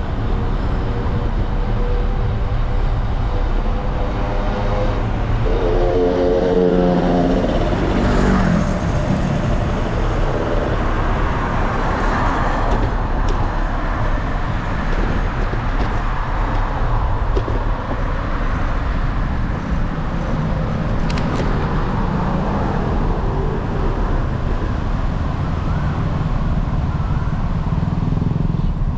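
Steady wind and road rumble from riding a bicycle in traffic. A motor vehicle passes close about six seconds in, its engine note briefly standing out.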